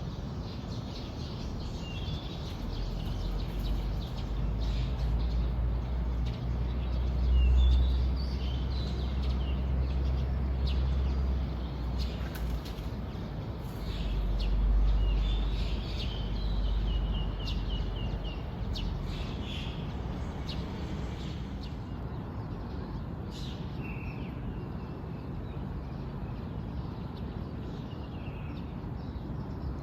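Small birds chirping and calling in short, scattered phrases, with a low rumble that swells twice in the first half and is the loudest thing heard.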